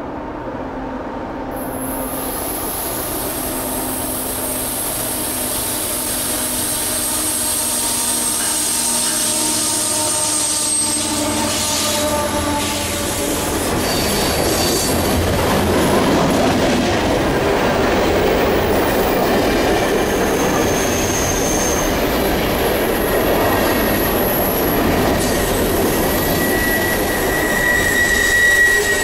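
Long CN freight train going by, getting louder as it comes in, with the steady rumble and rattle of rolling cars. Thin, high-pitched wheel squeal rings over it at several points, loudest near the end.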